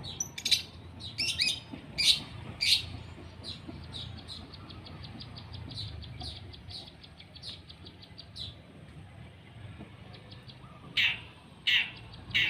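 Long-tailed shrike (cendet) calling: several loud short calls, then a long run of quick short notes at about five a second, with the loud calls starting again near the end.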